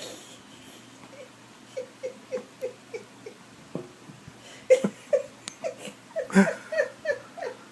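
A dog giving a run of short, repeated yips, about three a second, in two bouts, the second louder.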